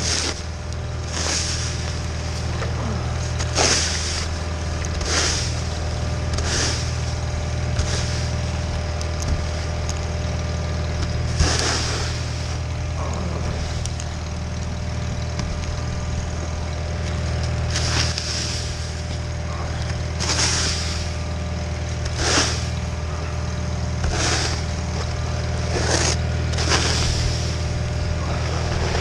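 John Deere 318 garden tractor's engine running steadily under load, driving a Model 49 snowblower, with short hissing whooshes every second or two.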